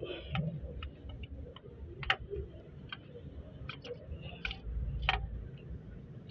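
Irregular light clicks and taps, about a dozen, from a clutch release fork and release bearing being handled and fitted on a gearbox bell housing.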